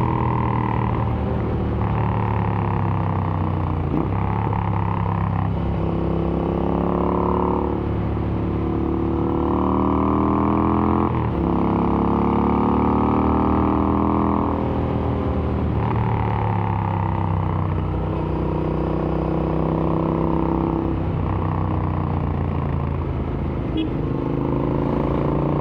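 Royal Enfield Interceptor 650's parallel-twin engine through an AEW aftermarket exhaust, running under way. The revs climb and fall again and again through gear changes, with a sharp drop in pitch about eleven seconds in.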